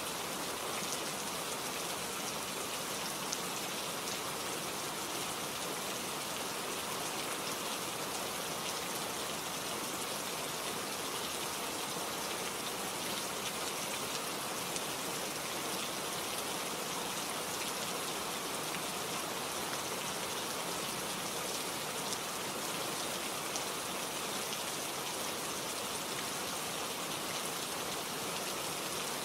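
Steady rain falling, a dense even hiss with many small drop ticks and an occasional louder drip.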